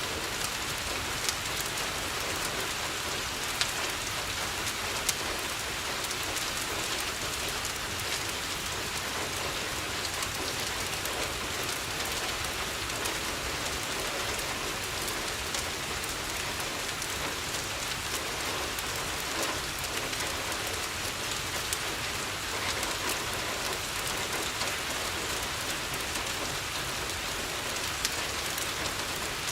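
Steady rain falling on a window, an even hiss, with a few scattered sharp pops from a crackling wood fire.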